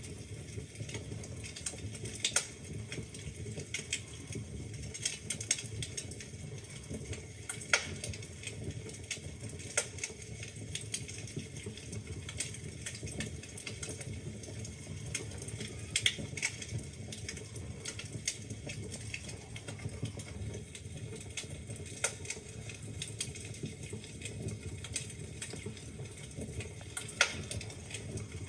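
Wood fire in a fireplace crackling steadily: a low rumble of the flames under frequent small snaps, with louder pops from the burning logs every few seconds.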